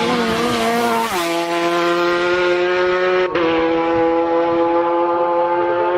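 Racing superbike engine running hard at high revs, its pitch dropping in two sudden steps as it changes up a gear, about a second in and again about three seconds in.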